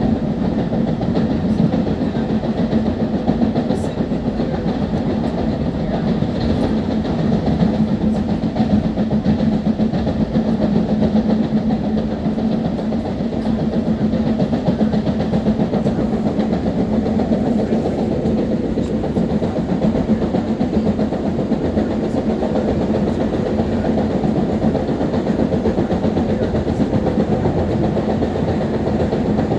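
Long Island Rail Road M3 electric multiple-unit train running at steady speed, heard from inside the front car: a continuous rumble of wheels on rail with a steady low hum throughout.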